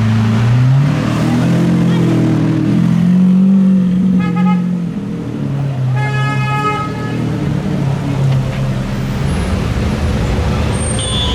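A car engine running with a low, deep note that rises in pitch about a second in and then settles. A car horn toots twice over it, briefly around four seconds in and longer around six seconds in.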